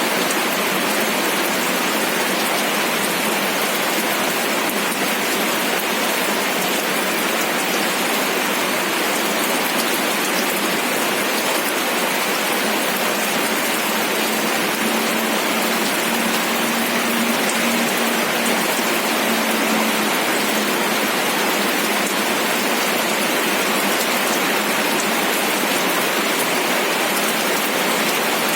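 Steady rain falling, a dense even patter of raindrops with no let-up.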